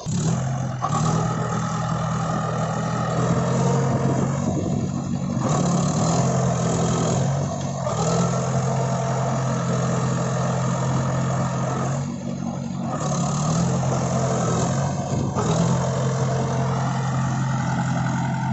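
Tractor diesel engine running loud and steady, its revs rising and dropping several times.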